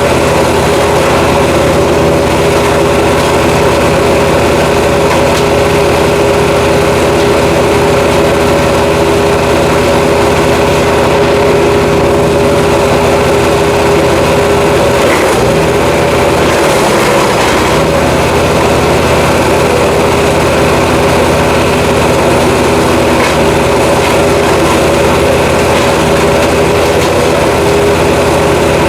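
Jansen GTS-1500 wood chipper's engine running steadily and loudly, its pitch dipping briefly about halfway through.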